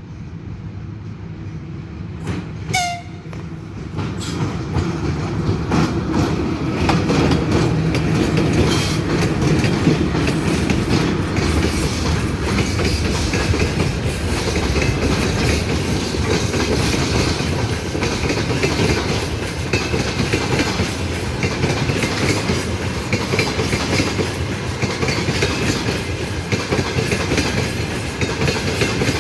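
A train passing close by: a short horn blast about three seconds in, then the steady rumble and wheel clatter over the rail joints as it runs through.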